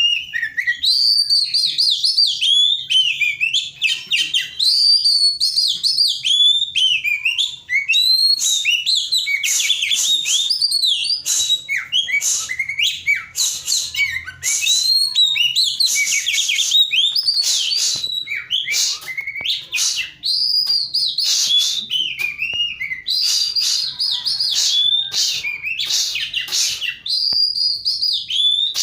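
Oriental magpie-robin (kacer) singing in full song: a continuous, fast, varied stream of sweeping whistles and chattering notes with only brief pauses.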